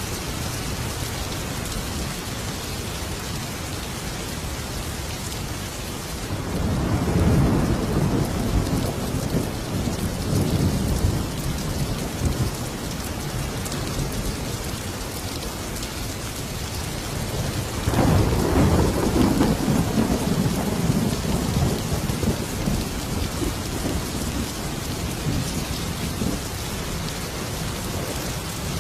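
Thunderstorm: steady heavy rain, with two long rolls of thunder, the first about six seconds in and the second, starting sharply, about eighteen seconds in.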